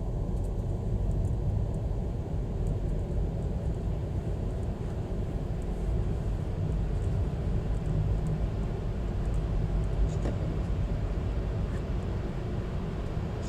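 Passenger train rolling along, heard from on board as a steady low rumble with a few faint clicks.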